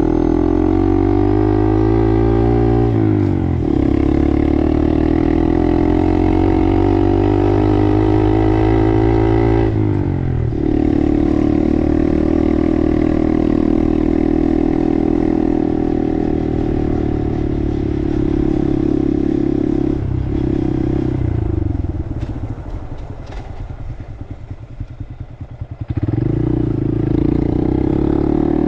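Honda Monkey 125's single-cylinder four-stroke engine pulling through the gears: its pitch rises, drops at a shift, and rises again twice, then holds a steady cruise. About two-thirds of the way through it falls to a slow, throbbing idle for a few seconds, then picks up again as the bike pulls away.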